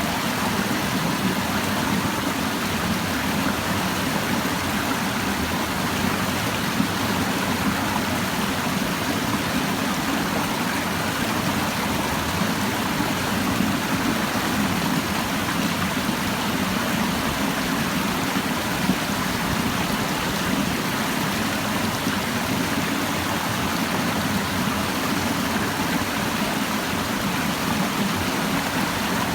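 A clear, shallow stream babbling over rocks: a steady rush and burble of flowing water.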